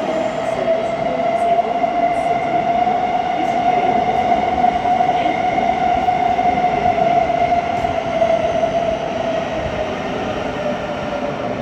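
Thameslink Class 700 electric multiple unit moving through the low-level platforms: a loud, steady motor whine over the rumble of the train, swelling slightly midway and easing off again.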